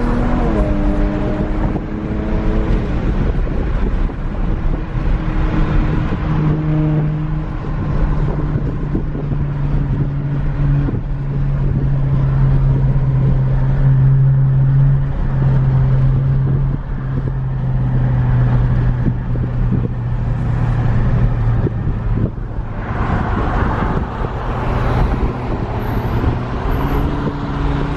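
Car engine running on the move under steady road and tyre noise. Its pitch drops quickly about half a second in, then it holds a steady low drone. A louder rush of noise comes near the end.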